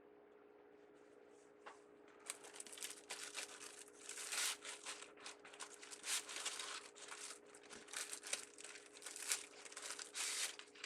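Craft ribbon crinkling and rustling in irregular bursts as it is handled and gathered into a bow, starting about two seconds in. A faint steady hum runs underneath.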